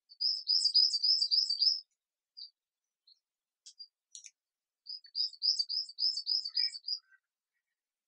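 A bird singing: two phrases of rapid, evenly repeated high notes, each lasting about two seconds, with a few single short chirps in the gap between them.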